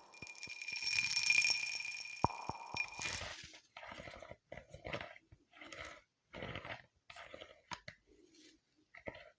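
A ringing, chime-like shimmer with two steady high tones fades out about three seconds in. It is followed by close-miked crunchy chewing, a regular run of short crunches a little more than one a second.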